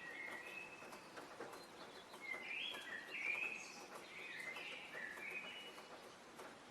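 Songbird singing a run of short, clear notes, busiest in the middle seconds, over faint outdoor background hiss.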